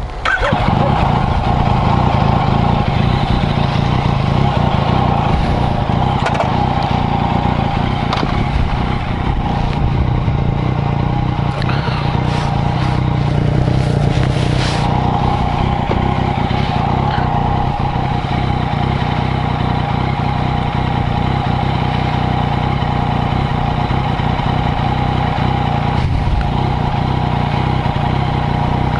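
2017 Yamaha MT-09's 847 cc three-cylinder engine idling steadily while the bike stands still.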